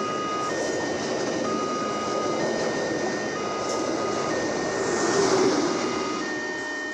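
Railway level-crossing warning signal sounding two alternating electronic tones, each held about a second, over the steady rumble of a passing train that swells briefly about five seconds in.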